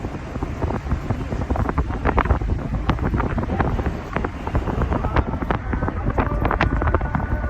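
Strong wind buffeting the microphone: a constant low rumble with many scattered sharp clicks. A steady pitched tone joins about six seconds in.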